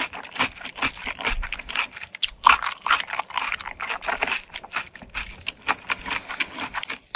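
Close-miked chewing of a mouthful of barbecue chicken steak: a dense run of short mouth clicks and smacks.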